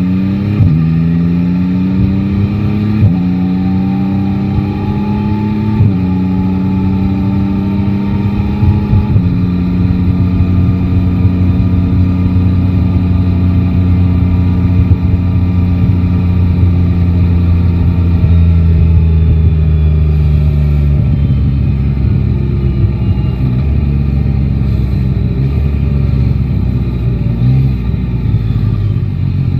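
Yamaha Tracer 9 GT's three-cylinder engine accelerating through the gears, the revs climbing and dropping back at upshifts about every three seconds. It then holds a steady cruise before the revs fall away as the bike slows down near the end.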